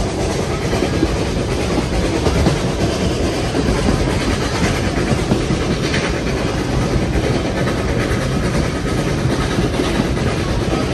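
Steam-hauled train running along the track: a steady rumble of wheels on rails with occasional clicks.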